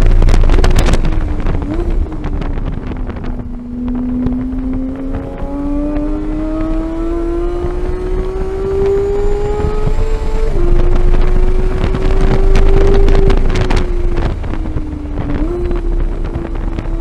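2015 Porsche 911 GT3's flat-six engine at racing speed. The note falls off under braking, then climbs steadily for several seconds under full throttle and drops sharply about ten seconds in on an upshift. It sags again and jumps back up near the end.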